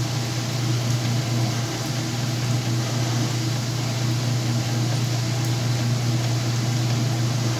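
Whirlpool washing machine running, a steady low motor hum with a hiss over it and no breaks.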